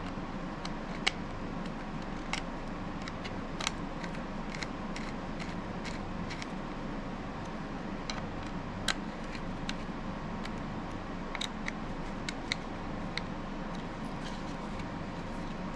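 Scattered light clicks and taps, irregular and about twenty in all, as the Tek-Lok belt clip and the knife's sheath are handled and fitted together. A steady low hum runs underneath.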